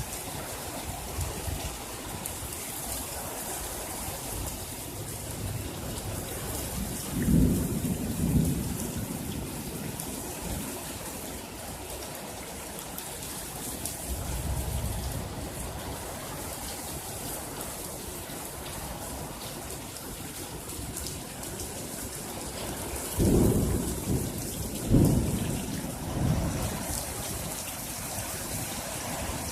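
Steady rain hissing down, with thunder rumbling: a low peal about seven seconds in, then a run of louder thunder claps and rumbles between about 23 and 27 seconds in.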